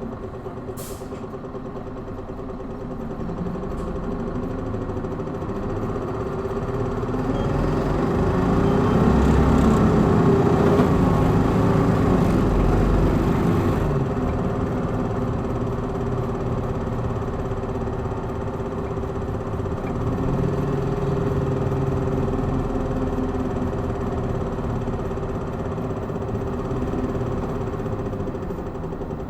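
A Hino Blue Ribbon city bus heard from inside while running in power mode. The engine note builds as the bus accelerates hard, is loudest about a third of the way in, eases off about halfway, then pulls again more gently and holds. A short click sounds just under a second in.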